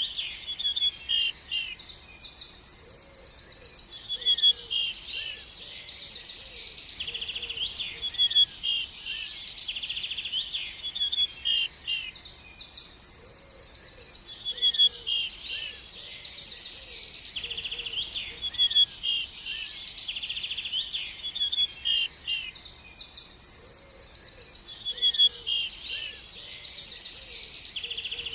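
Songbirds singing: fast, high trills and chirps. The same run of song comes round again about every ten seconds.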